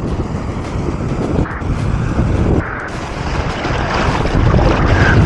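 Wind buffeting the microphone over ocean surf washing in, growing louder toward the end.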